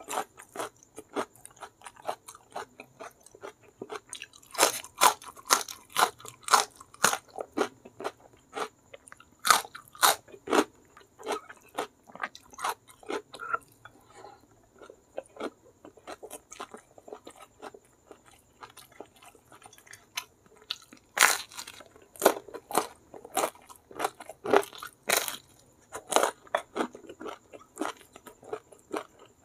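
Close-miked eating: a person chewing and biting crunchy food, with irregular crisp crunches coming in clusters, loudest about five to seven seconds in, around ten seconds, and again about twenty-one to twenty-six seconds in.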